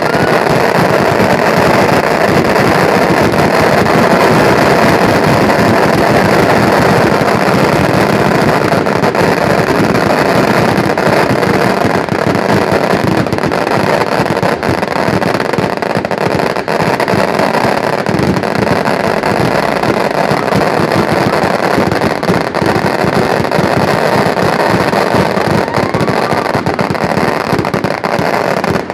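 A long fireworks barrage: a dense, unbroken crackle of many small bangs that runs at one loud level and cuts off suddenly at the end.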